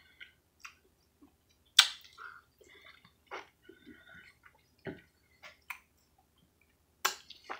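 A person biting and chewing soft, juicy mango flesh, with irregular wet mouth smacks and clicks, the loudest about two seconds in and again near the end.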